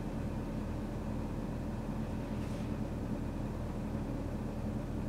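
Car engine idling: a steady low hum heard from inside the cabin.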